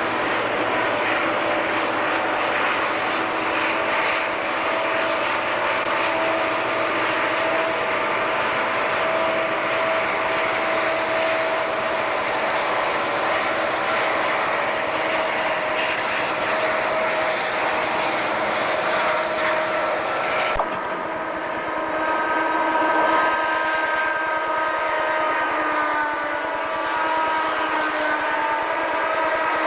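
Santa Fe diesel-hauled freight train running through, with a steady engine drone and rail noise. After an abrupt change about two-thirds in, a locomotive's multi-note air horn sounds one long chord, its pitch sagging slightly near the end.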